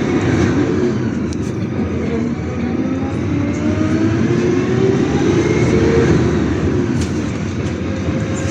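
City bus running under way, heard from inside the passenger cabin: steady engine and road noise with a whine that rises in pitch for most of the stretch and then eases off as the bus gathers speed.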